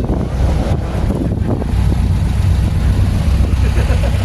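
Low, steady rumble of car engines, with some wind noise on the microphone.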